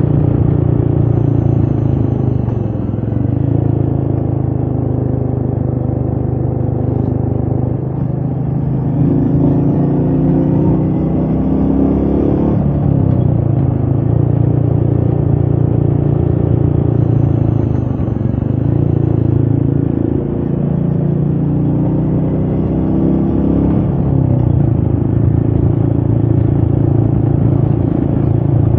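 Royal Enfield Meteor 350's single-cylinder engine under way on the road, its note rising and falling several times, with a steady climb that drops sharply about twelve seconds in. Wind noise runs under the engine.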